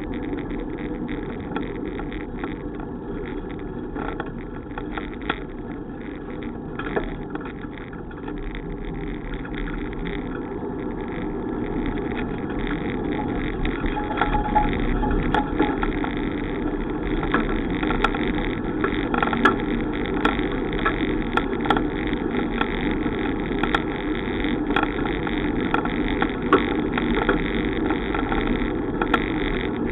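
Wind and road noise of a bicycle ride: a steady rushing noise with scattered clicks and rattles, getting louder a little under halfway through.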